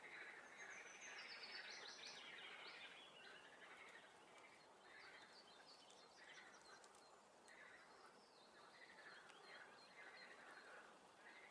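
Faint spring swamp chorus of frogs and songbirds, with calls repeating every second or so. A bird's high whistled phrase steps downward in pitch near the start.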